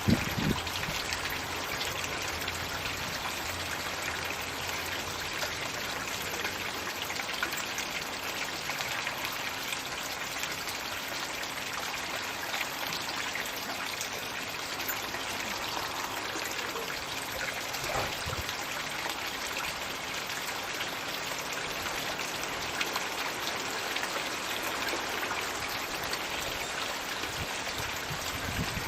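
Floating 'magic bucket' pond fountain running, water pouring steadily into the pond with a continuous trickling splash.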